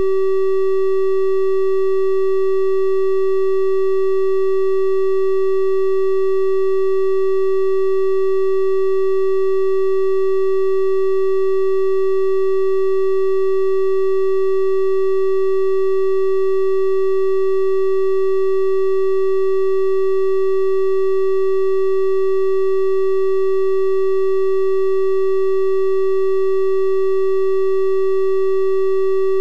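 Synthesized 384 Hz triangle-wave tone, held steady and unchanging, with faint higher overtones above the main pitch.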